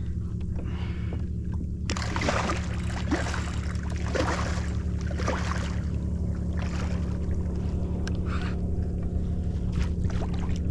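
Water splashing and sloshing at the side of a kayak as a large black drum is brought to the boat, with several splashes in the first half, over a steady low hum.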